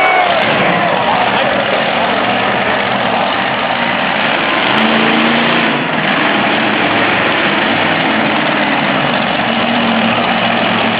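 Monster truck engine running loud and steady, a dense mechanical din with no clear changes in pitch.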